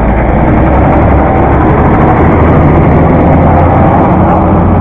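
An engine running steadily with a low hum, loud and close.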